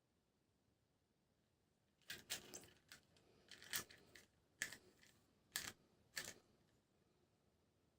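Handling noises from a toy and its packaging: a run of about seven sharp clicks with light rustling between them, starting about two seconds in and stopping a little past six seconds.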